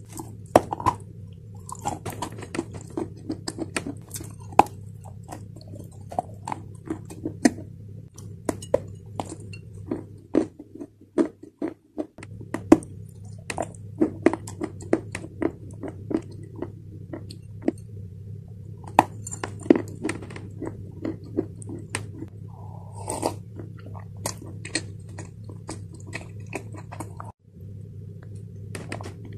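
Close-miked biting and chewing of clay chunks: a steady run of sharp crunches and grinding, over a steady low hum.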